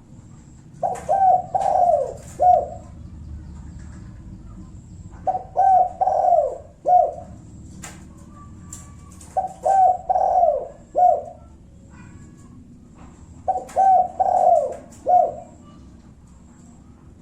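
Spotted dove (tekukur) cooing in the 'kuk satu' style used as a lure call: four repeated phrases about four seconds apart, each a few short coos with a longer drawn-out coo in the middle.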